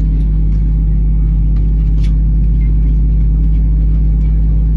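Steady low cabin hum inside an Airbus A320 before takeoff, with a sharp click about two seconds in.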